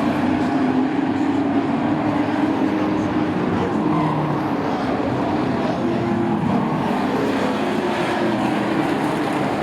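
A pack of short-track sport race trucks running at racing speed, several engines sounding at once with their pitches wavering up and down.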